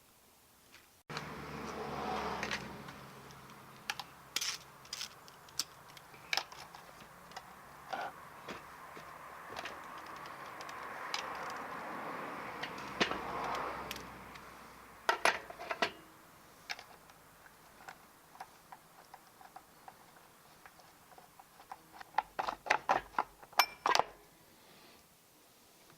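Hands and tools working on a Partner P465 chainsaw's bar, chain and cover: scattered metallic clicks and rattles over a low steady noise, with a quick run of clicks near the end.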